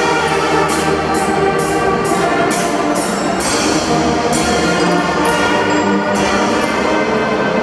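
Marching drum band playing: a held brass-and-wind melody over drums, with sharp cymbal-like hits about twice a second in the first half, sparser later.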